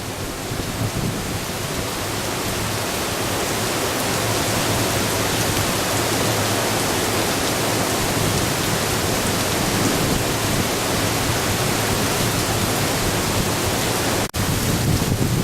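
Heavy typhoon rain and strong wind making a steady, dense rush of noise that builds over the first few seconds. It cuts out for an instant near the end.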